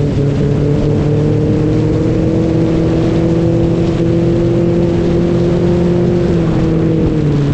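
An engine running steadily, its pitch creeping up slowly and then dropping about seven seconds in.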